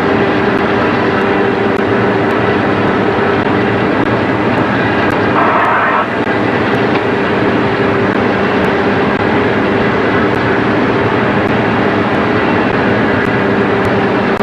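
Boat engine running steadily underway, a loud constant drone with a steady hum, plus wash from wind and water.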